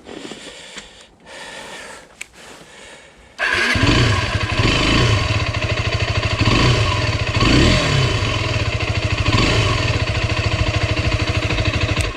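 Derbi Terra 125 motorcycle's single-cylinder engine comes in suddenly about three seconds in and keeps running, its pitch rising and falling several times as the throttle is worked.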